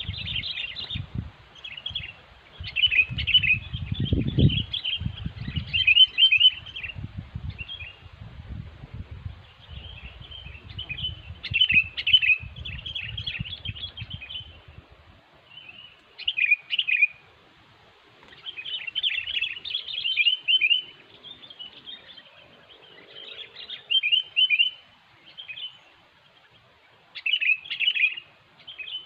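Sooty-headed bulbuls (kutilang) calling in short, repeated chattering phrases with brief pauses between them. A low rumbling noise runs under the calls through the first half.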